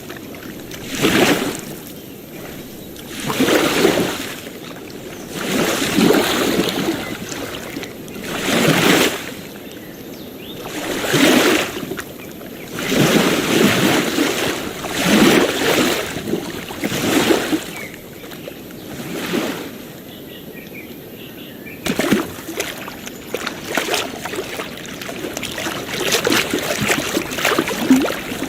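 Small waves lapping on a beach, one swell washing in and falling away about every two seconds. About two-thirds of the way through, the sound changes abruptly to quicker, choppier lapping and splashing.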